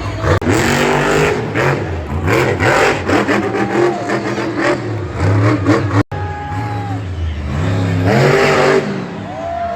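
Monster truck engines revving hard, their pitch rising and falling again and again, with a brief cut-out about six seconds in.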